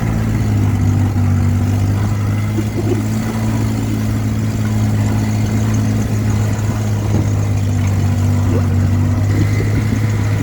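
Old truck's engine running hard at steady revs, one constant loud note while the truck drives.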